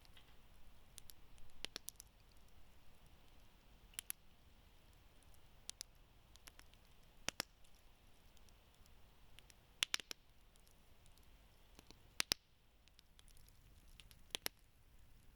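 Wood campfire crackling faintly: sharp, scattered pops and snaps, some in quick pairs, every second or so over a low hiss of burning.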